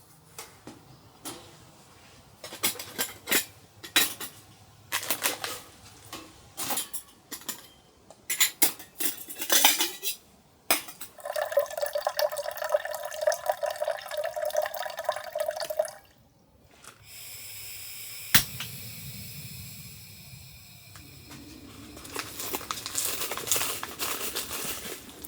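Cookware and utensils clinking and clattering, followed by water pouring for about five seconds, then a steady hiss with one sharp click and more clatter near the end.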